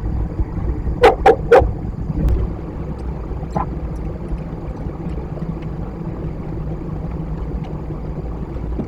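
Steady low rumble of wind on an outdoor microphone, with three sharp knocks in quick succession about a second in and a fainter one a couple of seconds later.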